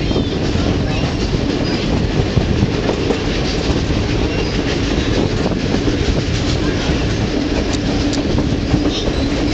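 Heritage railway train running along the track: a steady rumble of the rolling cars with light clicking of wheels over the rail joints.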